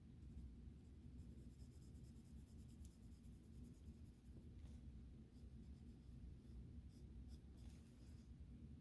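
Faint, quick strokes of a colouring tool scratching on sketchbook paper, in short runs, over a low steady hum.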